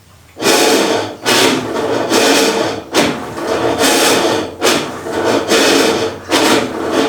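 Brastemp/Consul top-loading washing machine agitating with a loud grinding, rubbing noise that comes in strokes about once a second. This is the agitation noise that the repair traces to a worn cam assembly, whose tabs typically wear thin.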